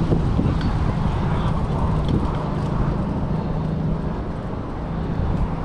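Street traffic: vehicle engines running with a steady low hum over road noise.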